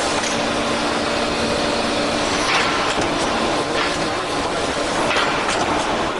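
A CNC angle steel punching and shearing line running: steady machinery noise with a faint hum that stops about two and a half seconds in, then a few light clanks.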